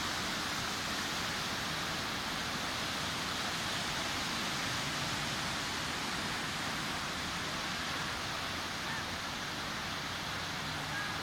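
Sea surf washing steadily onto a beach, an even, continuous rush of water with no distinct single wave breaks.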